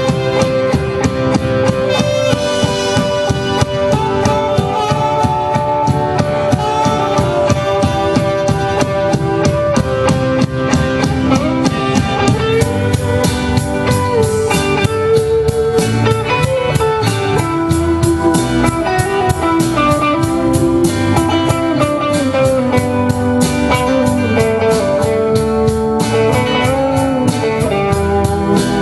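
Instrumental band music: a guitar carries a melody over a steady drum-kit beat.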